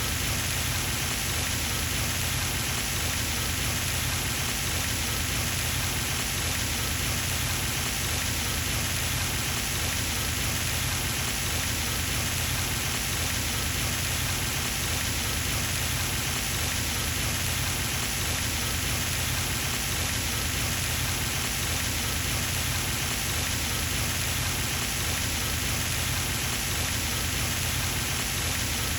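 Pond fountain running: a steady splashing hiss of water spray falling back onto the pond's surface, unchanging throughout.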